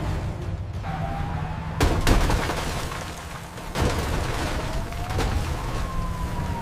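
Action-scene sound effects over a steady low rumble: a loud boom about two seconds in and another just before four seconds, then a siren wailing up and down in the second half.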